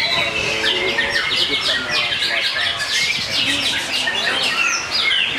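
Many caged songbirds singing at once, a dense tangle of rapid, overlapping chirps and trills.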